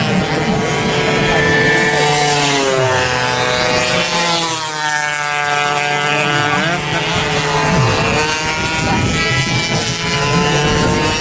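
Several two-stroke race motorcycle engines running at high revs, their pitches gliding up and down; in the middle one drops in pitch and then climbs again.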